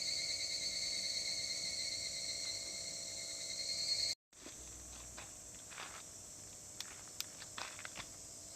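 Insects chirring steadily in a high, even trill until a sudden cut about four seconds in; after it, a fainter insect hum with scattered sharp little clicks and crackles.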